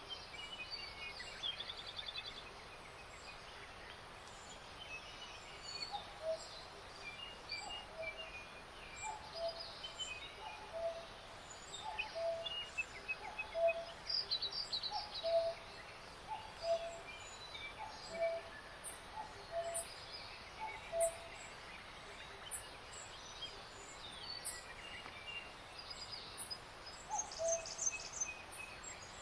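Several songbirds singing and calling over a steady outdoor hiss: high chirps, trills and thin ticks from different birds overlap. A lower, short note repeats about once a second through the middle stretch.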